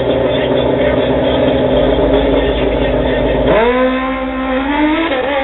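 Drag-racing motorcycle engine held at steady high revs on the starting line, then launching about three and a half seconds in and accelerating away, its pitch climbing steadily with a brief dip near the end, as at a gear change.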